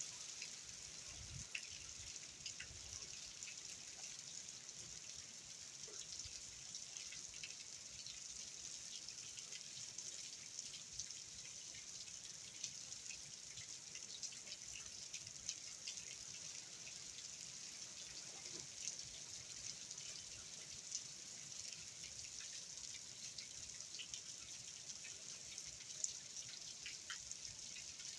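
Steady rain falling during Hurricane Ian's outer bands, a continuous high hiss with many small scattered drips and ticks throughout.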